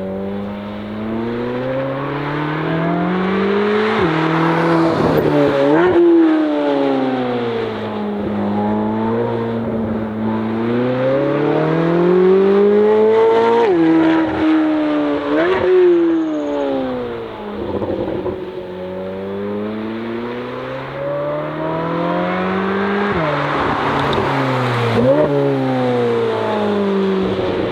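Chevrolet C8 Corvette Z06's flat-plane-crank V8 with an AWE exhaust, driven hard on a track. The engine note climbs through the revs several times, drops sharply between climbs and glides down in between.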